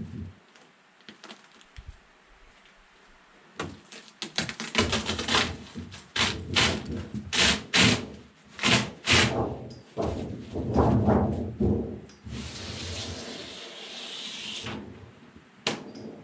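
Sheet-metal skin of a refrigerator being pried and peeled away from its foam insulation with a scraper: a run of cracks and creaks starting about three and a half seconds in, then a steady scraping hiss lasting a couple of seconds near the end.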